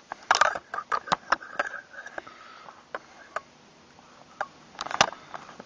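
Handling noises from pump-action shotguns being moved and set down. A quick run of sharp clicks and knocks comes in the first two seconds, then a few scattered taps, and a short rustle with a knock about five seconds in.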